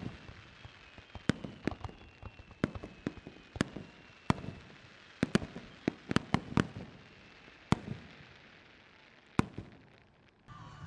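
Starmine fireworks barrage: aerial shells bursting in quick, irregular succession as sharp booms and cracks, easing off near the end.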